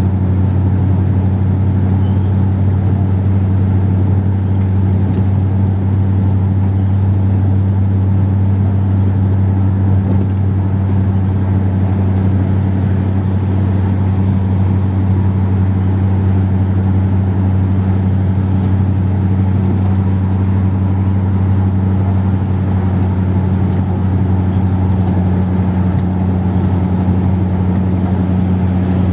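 1957 Ford Thunderbird's V8 engine running steadily while the car cruises at an even speed, with no revving or gear changes.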